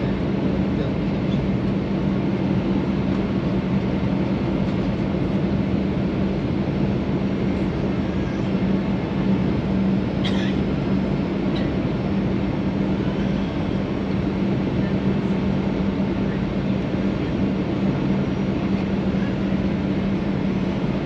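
Steady cabin noise inside a Boeing 737-800 on approach to land: the rush of airflow and the drone of its CFM56 engines, with a steady low hum underneath.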